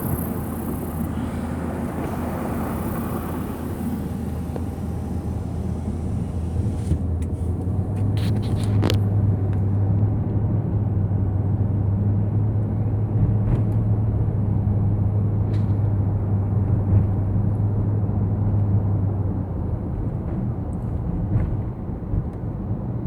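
Car running down the highway, heard from inside: a steady low drone of engine and road noise that grows stronger from about eight seconds in, then eases near the end.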